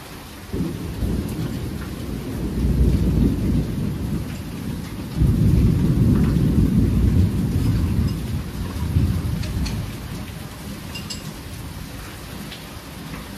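Thunder rolling over steady rain. A deep rumble breaks in about half a second in, surges again about five seconds in, and dies away after about ten seconds, while the rain hisses throughout.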